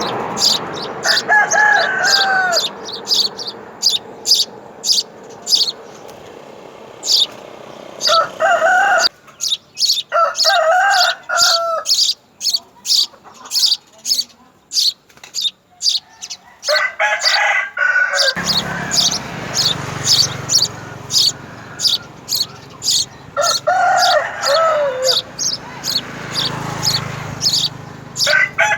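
Small birds chirping in quick, short, high notes, several a second, throughout, while a rooster crows about six times.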